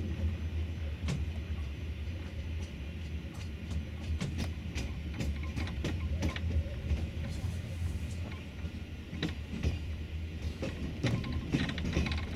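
A moving passenger train heard from inside the carriage: a steady low rumble with irregular clicks, knocks and rattles.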